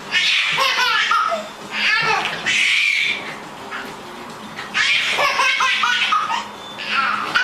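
Several hearty bursts of laughter, each about a second long.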